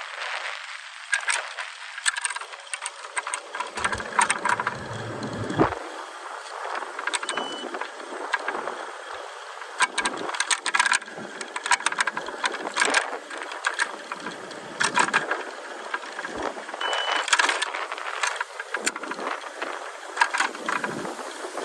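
Rattling and clicking from a moving vehicle over a steady rush of road or wind noise, with a brief low rumble about four seconds in.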